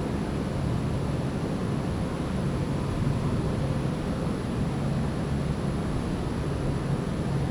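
Storm wind blowing steadily, a constant rushing noise with low rumbling wind buffeting on the microphone.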